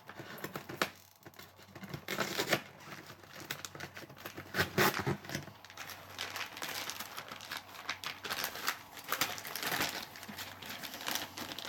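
Paper packaging rustling and crinkling in irregular bursts, with scattered clicks and taps, as an instruction manual and its papers are handled.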